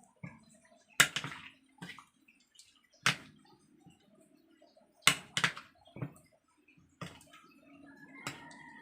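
Raw chicken pieces being mixed by hand in a bowl of wet flour batter: irregular wet squelches and knocks, about eight of them, spaced unevenly.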